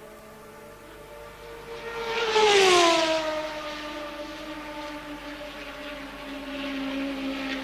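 A 1983 Formula One car passing at racing speed, its engine note swelling and then dropping sharply in pitch as it goes by about two and a half seconds in, followed by a steadier engine note as it draws away.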